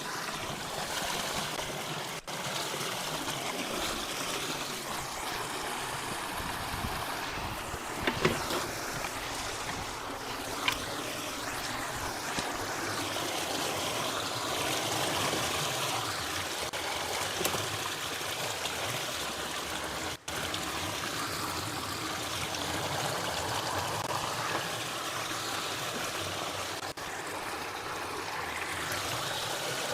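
Water running and trickling steadily around a partly blocked culvert. A few sharp knocks break through it, the loudest about eight seconds in.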